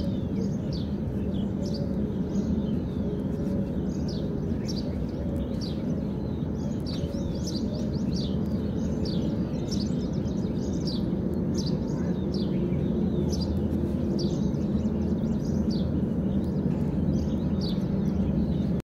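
Small birds chirping busily, many short quick chirps a second, over a steady low background hum.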